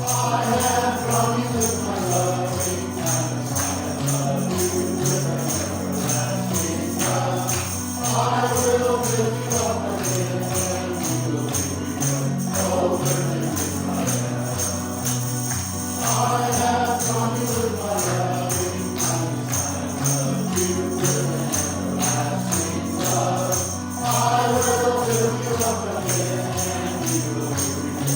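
A hymn or worship song sung over recorded backing music with a steady bass beat, tambourines shaken and struck along with it.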